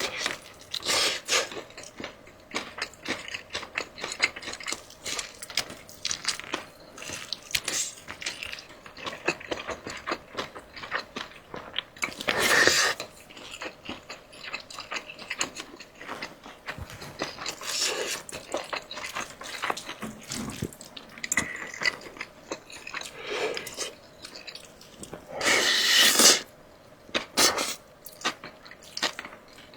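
Close-miked eating sounds: steady, irregular crunching and chewing crackles, with a couple of louder, longer noisy bursts, one about twelve seconds in and one near the end.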